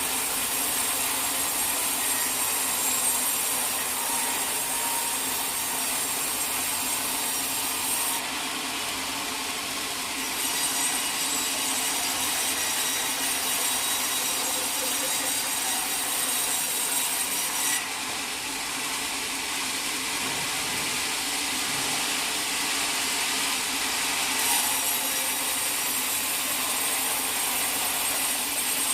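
Band sawmill blade cutting through a teak log, a steady sawing noise. The highest hiss drops away for a few seconds, twice: about eight and about eighteen seconds in.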